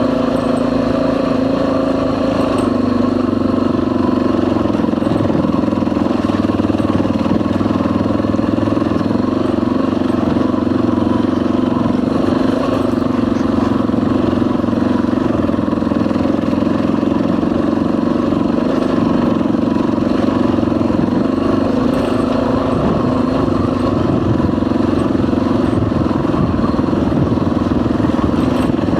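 Dual sport motorcycle engine running steadily while under way.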